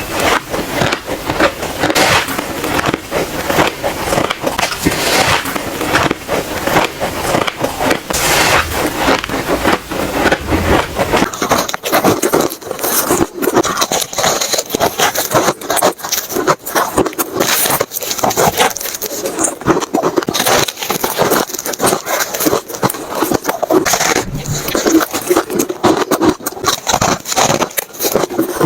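White ice being bitten and chewed close to the microphone: a dense, continuous run of crunches and crackles.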